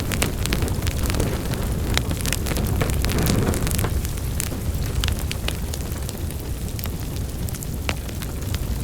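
Wood fire burning in a fireplace: a steady low roar of flames with irregular sharp crackles and pops from the burning logs.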